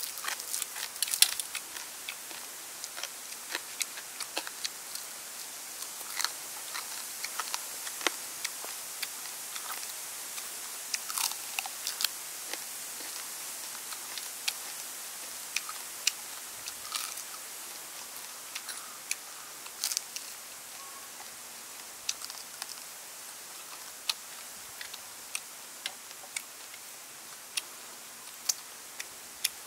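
Crisp bites and chewing of deep-fried water snake: short sharp crunches and crackles, close together in the first half and spaced out toward the end.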